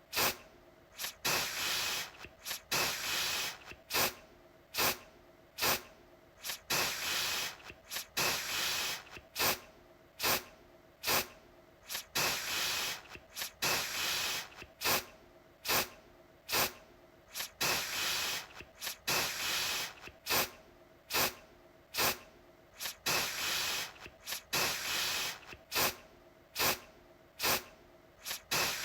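Aerosol deodorant can spraying in short hissing bursts, again and again, with sharp clicks between the bursts.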